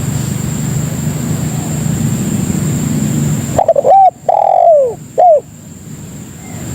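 Spotted dove (tekukur) cooing: one phrase of about four notes a little past halfway through, the third longer with a wavering, falling end. A low rumble fills the rest, and a thin high whine runs throughout.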